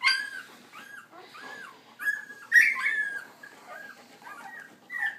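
Very young puppies crying: a steady string of short, high-pitched squeaks and whimpers about twice a second, with louder cries at the start and about two and a half seconds in.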